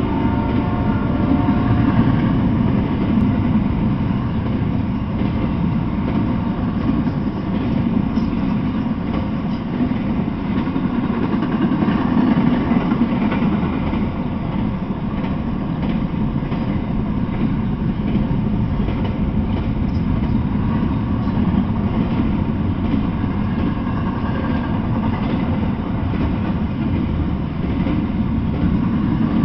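Double-stack intermodal container freight train rolling past: a steady low rumble of wheels and cars on the rails.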